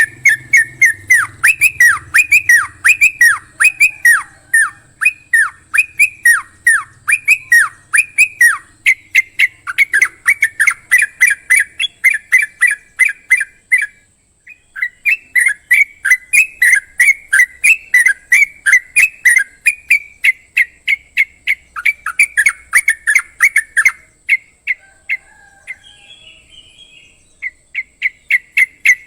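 Crocokkan songbird calls used as a masteran tutor recording: a fast, steady string of sharp whistled notes, each sweeping down in pitch, about three a second. The run breaks off briefly about halfway through, then pauses near the end before starting again.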